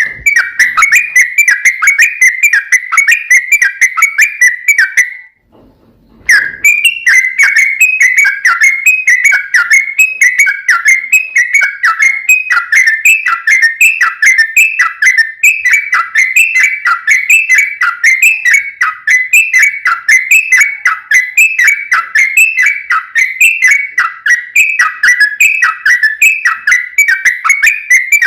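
Yellow-vented bulbul singing a long run of quick, repeated whistled notes, broken by a short pause about five seconds in.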